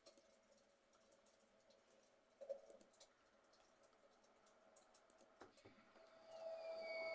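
Near silence with a few faint clicks and a brief small clatter; a faint steady hum comes in near the end.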